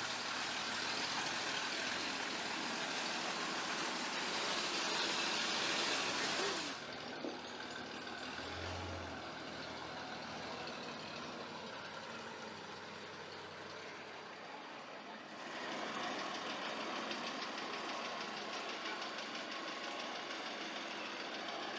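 A vehicle engine running steadily, with a noisy hiss over it. The sound changes abruptly about seven seconds in and again about fifteen seconds in.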